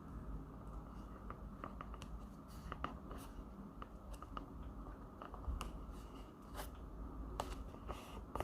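Paper and stationery handling on a diary: scattered light clicks, taps and brief paper rustles over a low steady hum.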